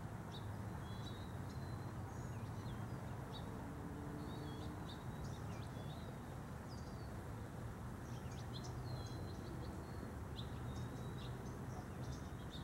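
Small birds chirping, many short high chirps scattered throughout, over a steady background hiss of outdoor ambience.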